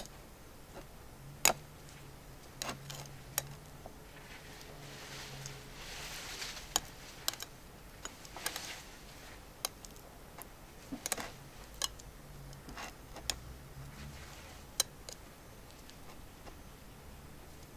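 Chicken frying in butter in a small frying pan: irregular sharp pops and ticks, about a dozen, over a faint sizzle that swells for a few seconds around the middle.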